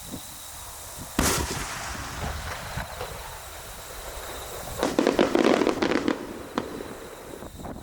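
Aerial fireworks bursting: a sharp boom about a second in, then a dense cluster of crackling bursts around five to six seconds in.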